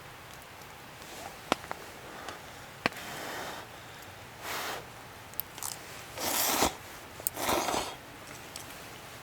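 Four short scraping swishes, the last two the loudest, with a few sharp small clicks between them.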